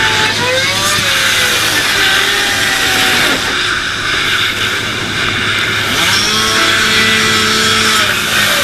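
Loud, dense mix of emergency-scene sound effects: a steady low hum under engine-like machine noise, with wavering pitched tones in the first second and a held pitched tone from about six seconds in to near the end.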